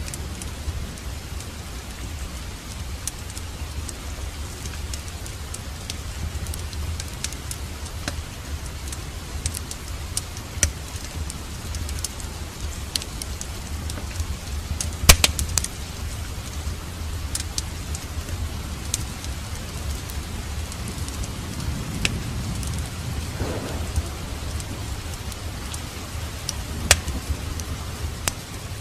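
Wood fire crackling in a fireplace, with scattered sharp pops, the loudest about halfway through and again near the end. Underneath is a steady hiss of rain and a low rumble.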